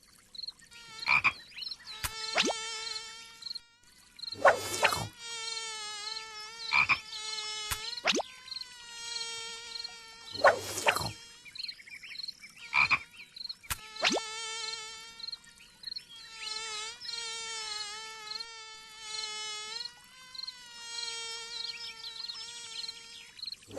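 Cartoon mosquito buzzing sound effect: a wavering whine that comes and goes in runs of a few seconds, broken by several loud sudden hits.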